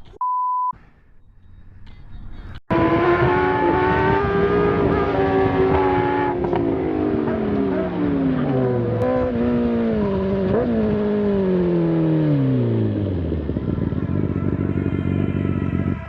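A short electronic beep, then a loud motorcycle engine whose pitch falls steadily over about ten seconds as the bike slows, with one brief rise about two-thirds through, settling low near the end.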